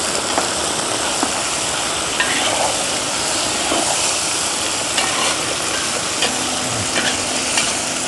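Meat, carrots and onion sizzling steadily on a large steel pan, with a metal spatula stirring and scraping through them, giving occasional light clicks.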